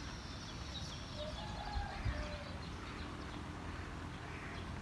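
Faint bird calls: short high chirps near the start and a brief lower call about a second in, over a low steady rumble.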